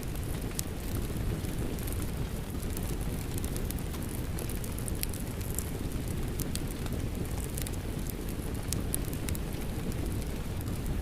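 Rain falling together with a crackling wood fire: a steady low rush of noise under frequent sharp pops and crackles.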